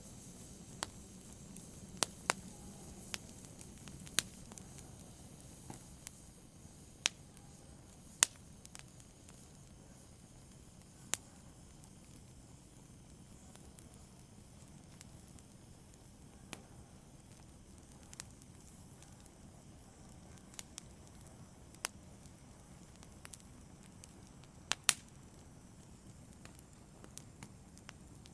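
Fireplace wood fire burning with a low steady hiss and sharp, irregular crackles and pops, a few loud snaps standing out among fainter ones.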